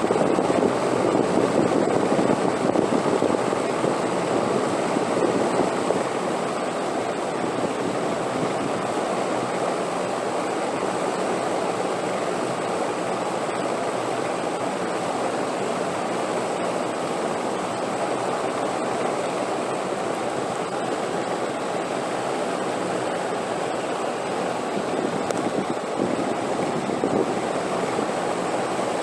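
Steady rushing wind, a little stronger in the first few seconds before settling to an even level.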